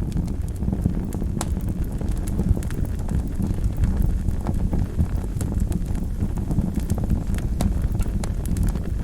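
Wood fire burning in a fireplace: a steady low rumble of the flames with irregular sharp crackles and pops of burning logs.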